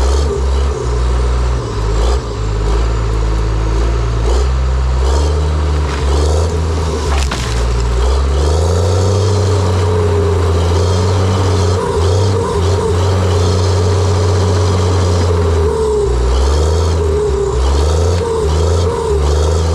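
John Deere 700J-II crawler dozer's diesel engine running under load, its pitch and strength shifting every second or two as it works.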